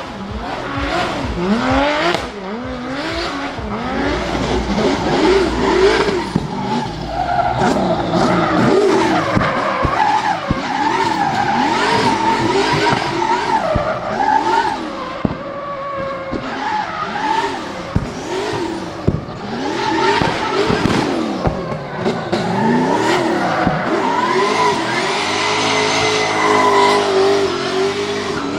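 Drift car engine revving hard, its pitch sweeping up and down again and again, with tyres squealing as it slides. Near the end the engine holds a steady high note for a few seconds.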